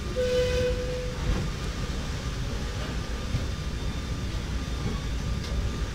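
A Ferrocarril de Sóller train running on its rails with a steady low rumble, and a short steady tone sounding for under a second near the start.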